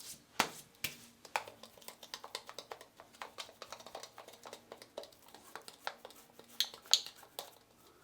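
Shaving alum block being handled and rubbed over freshly shaved, wet skin after a shave, making faint irregular clicks and light taps, with a few sharper ones.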